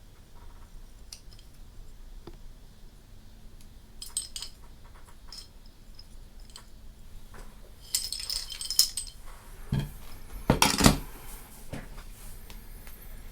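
Small action-camera mount brackets and adapter parts being handled, clinking and clicking against each other and a hard surface. There are scattered light clicks, a quick flurry of clinks about eight seconds in, and a couple of heavier knocks shortly after.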